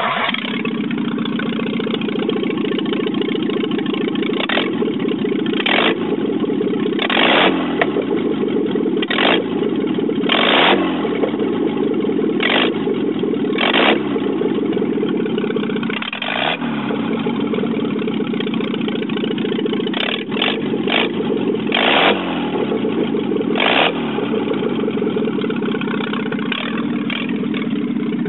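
Lada 1200's 1.2-litre four-cylinder engine fires up and runs with no exhaust pipe fitted, exhausting straight from the exhaust manifold. It gets about a dozen short throttle blips between stretches of steady running.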